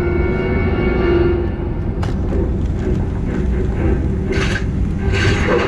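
Steady low rumble of an airliner cabin aboard a Boeing 737-900ER, with a held hum underneath, from the aircraft's air systems and engines before departure.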